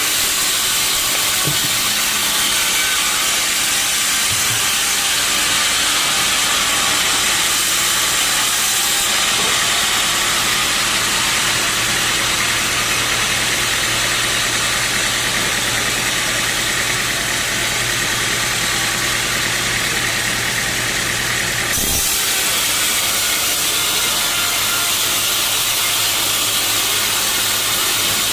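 Sawmill saw running through a teak log: a steady loud hiss of the blade in the wood over the steady hum of the saw's motor. The sound shifts abruptly once, about three-quarters of the way through.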